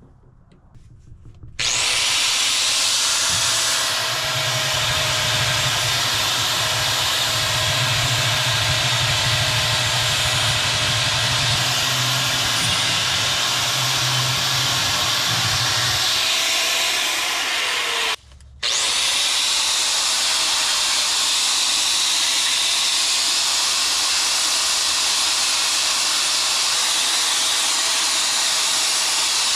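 Angle grinder cleaning mill scale, oil and grease off scrap steel: a loud, steady hissing grind that starts abruptly about a second and a half in, cuts out for a moment about 18 seconds in, then runs again.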